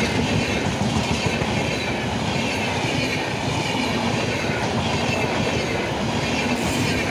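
Passenger train coaches rolling past at a steady level, wheels rumbling and clattering over the rail joints, with a faint high squeal from the wheels on the curve.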